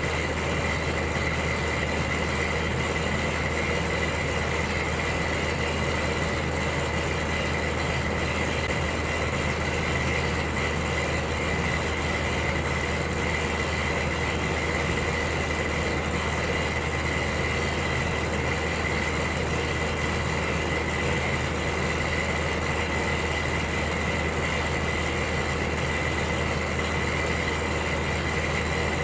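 Electric heater running steadily: a constant low hum under an even hiss, with a thin steady high whine on top.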